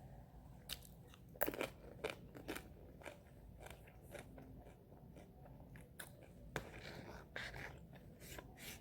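A person chewing and biting food close to the microphone: irregular crunches and wet mouth clicks, the loudest about one and a half seconds in and again near seven seconds.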